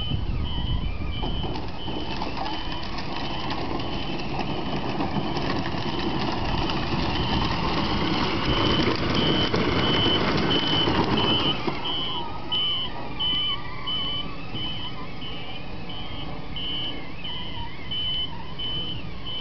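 A truck's engine running with its reversing alarm beeping steadily and repeatedly, loud. The engine noise swells for several seconds near the middle, then settles back.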